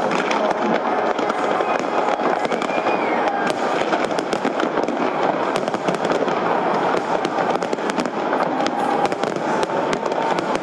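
Large fireworks display: many shells and crackling effects going off at once, a dense continuous crackle with sharp cracks throughout.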